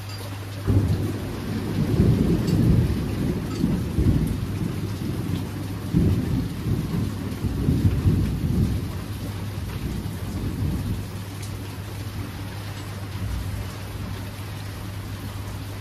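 Steady rain falling with a roll of thunder: a low rumble breaks in suddenly about a second in, swells in several surges, then fades away before the end while the rain hiss goes on.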